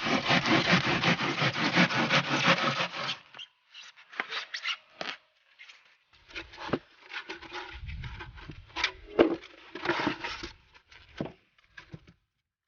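Extruded polystyrene foam board being cut for about three seconds, a dense scratchy rasp, followed by scattered short knocks, scrapes and rustles as the foam pieces are handled and fitted.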